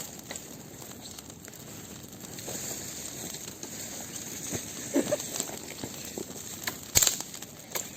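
Bonfire of branches and plastic film burning: a steady hiss with scattered crackles and pops, the sharpest about seven seconds in.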